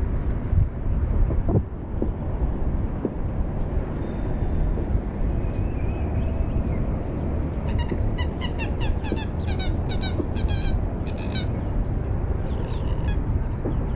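A bird calling a rapid run of short, sharp notes for about four seconds, starting about eight seconds in, over a steady low rumble.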